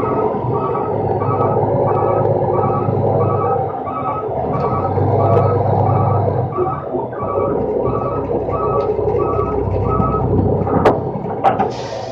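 Rolloff truck's backup alarm beeping in a steady, evenly spaced series over the diesel engine running. The beeping stops near the end, followed by a couple of sharp knocks and a short burst of hiss.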